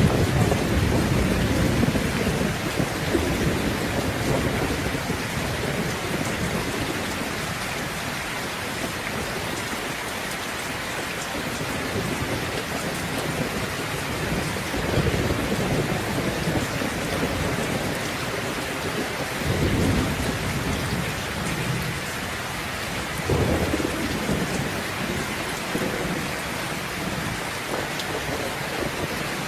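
Steady heavy rain falling, with rolling thunder rumbles. A loud rumble at the start fades over several seconds, and further shorter rumbles come about halfway through and again around two-thirds in.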